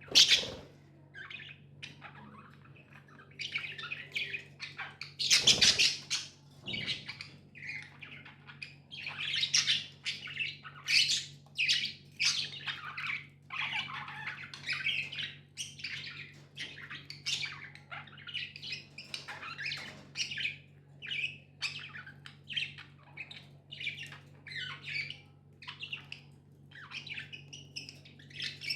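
Budgerigars chirping and chattering in a rapid, unbroken run of short calls, with a few louder squawks.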